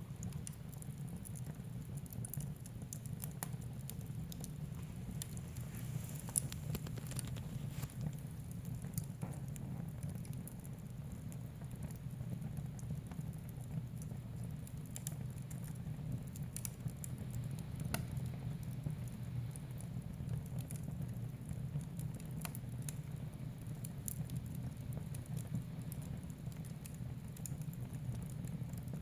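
Wood fire burning in a fireplace: a steady low rush of flames with many scattered, irregular crackles and pops.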